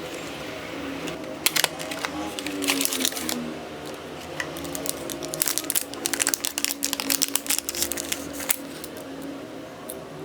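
Rapid small clicks and taps of tools and plastic phone parts being handled while a Samsung Galaxy A13 is disassembled, densest in the middle stretch, over steady background music.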